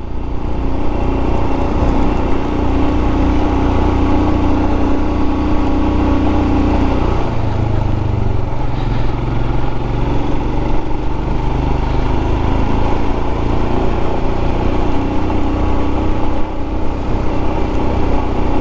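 Royal Enfield Scram 411's single-cylinder engine running steadily at road speed, mixed with wind rush on the microphone. The engine note changes about seven seconds in.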